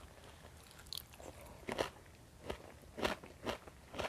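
Close-up chewing of fried fish with rice, with about six short, crisp crunches spread across a few seconds, heard close on a clip-on microphone.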